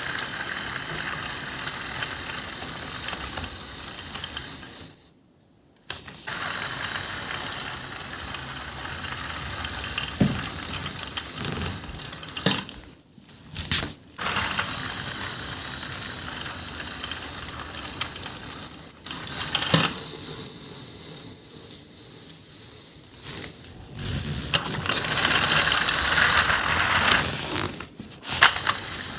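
Toy train running with a steady mechanical noise, broken by a few sharp knocks. The sound cuts out briefly twice.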